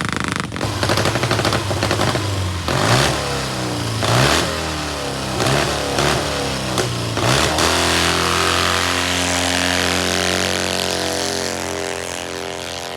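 Douglas SW5 vintage flat-twin racing motorcycle accelerating hard up the hill, its engine note climbing and dropping back with each of several gear changes. It then holds a steady note and fades as it draws away.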